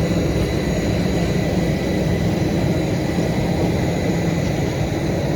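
Airliner engines and cabin noise: a loud steady drone with a thin steady whine above it.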